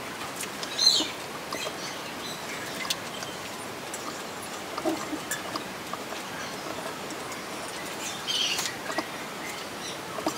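A few faint, short, high chirps of small birds over a steady background hiss, with the clearest chirps about a second in and again near the end.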